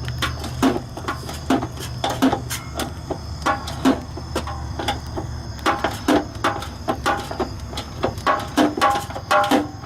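Metal tools clinking and knocking irregularly while unbolting the exhaust brackets of a Shelby GT500: many sharp, uneven clicks with no steady rhythm.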